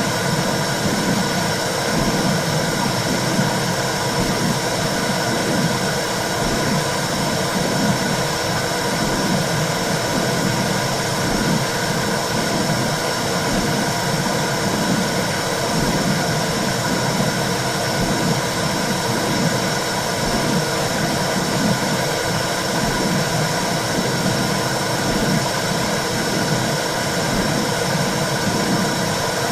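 Womb sound for soothing a baby: a steady whooshing noise with a low rumble that swells and fades in a regular pulse.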